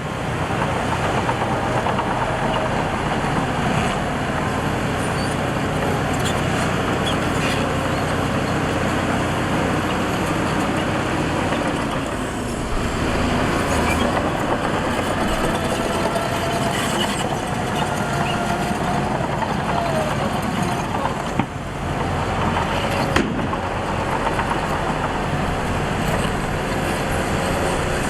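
Heavy diesel earthmoving machinery running steadily, with a couple of short knocks about two-thirds of the way through.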